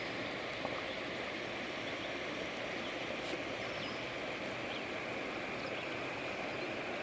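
Running water of a stream or river, a steady even rush.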